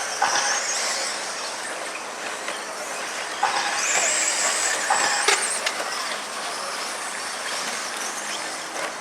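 RC stadium trucks racing past on a dirt track, their motors whining high and rising and falling in pitch as they accelerate and brake, loudest as a pack passes around the middle, over a steady hiss of tyres and track noise.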